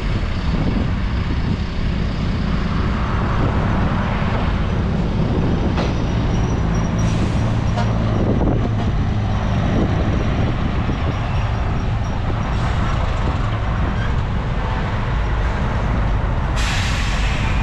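Heavy diesel earthmoving machinery running steadily, with a deep, constant engine drone. A short burst of hiss near the end.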